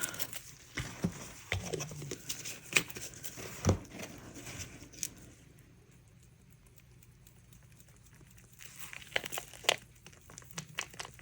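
Scattered clicks, taps and crinkles of small plastic containers and caps being handled on a work table, with a quiet stretch in the middle and a burst of clicks near the end.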